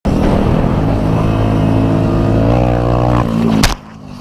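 Motor vehicle engine running loudly, rising in pitch as it accelerates after about two and a half seconds, then a sharp knock near the end, after which the engine sound cuts off abruptly.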